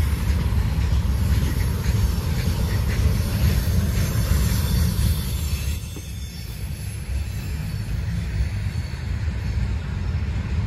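Slow freight train rolling past: a steady low rumble of cars on the rails, with a high hiss over it that drops away about six seconds in.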